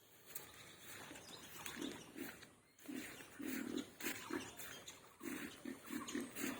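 Pigs grunting: a run of short, low grunts, several a second, beginning about a second and a half in.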